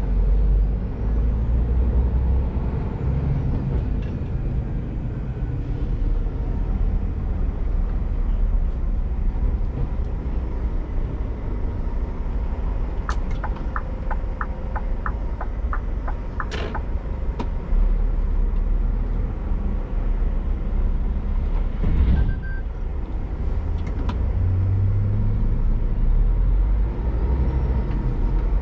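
Scania G410 truck's 13-litre inline-six diesel running steadily as the loaded container rig drives. Midway there is a run of about ten regular ticks, roughly three a second, and about 22 seconds in a short sharp noise.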